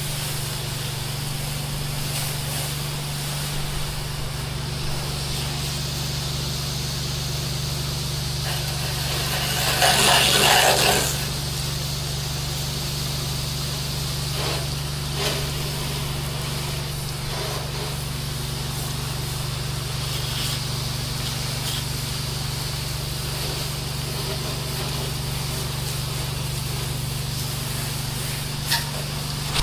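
Soft wash rig spraying sodium hypochlorite onto a house wall: a steady pump hum under a constant spray hiss. About ten seconds in there is a louder rush of spray for a second or so.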